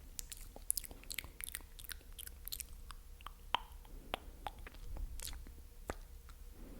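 Close-miked ASMR mouth sounds: many wet, sticky clicks and pops of the tongue and lips, coming irregularly.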